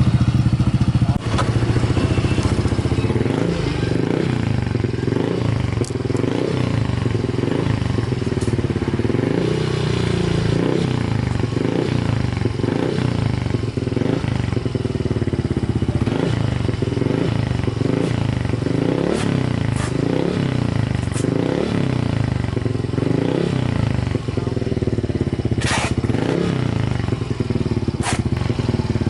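Yamaha Mio i125 scooter's single-cylinder four-stroke engine through an AMR aftermarket power pipe exhaust, revved over and over in short throttle blips that rise and fall about once a second. There are a couple of sharp clicks near the end.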